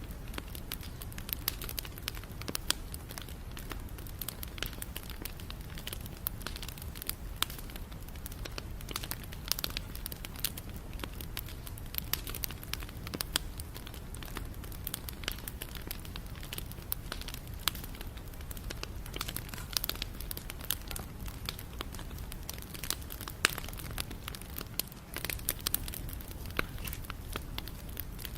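Wood fire burning with a steady stream of irregular crackles and pops over a low, even rumble of the flames.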